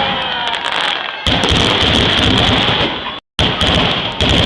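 A fireworks display: a dense, continuous crackle of bursts and pops with a few faint whistles. The sound cuts out completely for an instant about three seconds in.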